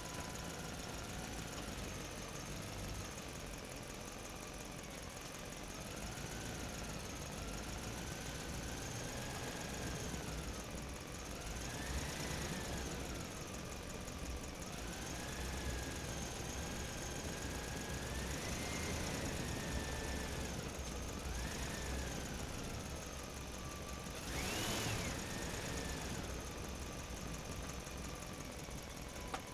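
A motor running steadily, its whine rising and falling in pitch every few seconds, with one sharper, louder rise near the end.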